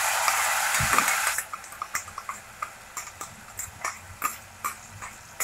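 Ginger-garlic paste dropping into hot coconut oil in a non-stick kadai: a loud burst of sizzling for about a second and a half, with a dull thump about a second in. It settles into quieter sizzling with scattered small pops and crackles.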